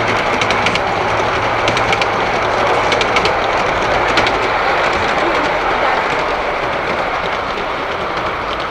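Model train running along its track, wheels clicking over the rail joints, against a steady noisy background.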